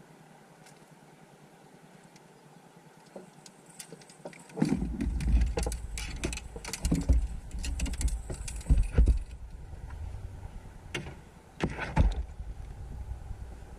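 Near quiet for the first few seconds, then a run of irregular knocks, clicks and jangling over low rumbling handling noise, as fishing gear is loaded and moved around in a car.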